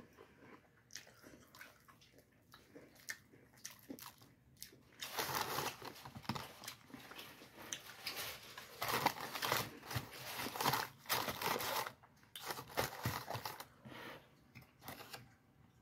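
Close-up mouth sounds of eating a crispy breaded fried chicken wing: small wet clicks at first, then bouts of crunching and chewing through the crust from about a third of the way in until near the end.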